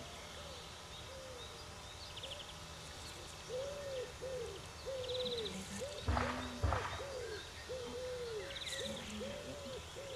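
A bird cooing: a long run of soft, even hooting notes that rise and fall, about two a second. Two short knocks about six seconds in.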